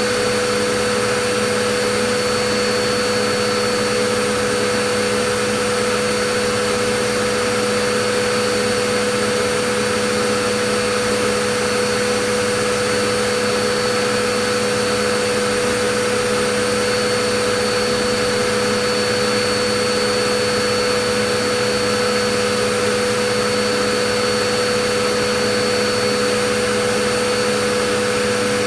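Vacuum cleaner running at a steady pitch: a constant rushing of air over a motor hum, with a steady whine.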